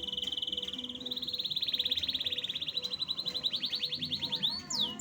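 Domestic canary singing a long, fast, high trill. It begins as a buzzy roll, turns into a pulsed trill that gradually slows, and ends with a few downward-swooping notes near the end.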